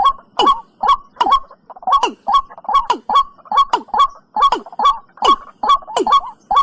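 Watercock (cúm núm) call played from a lure recording: a loud, fast, even series of short hollow notes, about two to three a second, each dropping in pitch.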